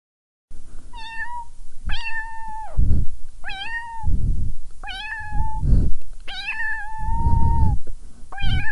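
Kitten meowing repeatedly in high, drawn-out calls, six in all, about a second apart, the fifth held longest. Low bumps can be heard between some of the calls.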